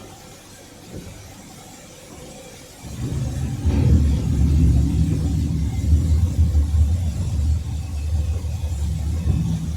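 A loud, low, uneven rumble starts suddenly about three seconds in and keeps going.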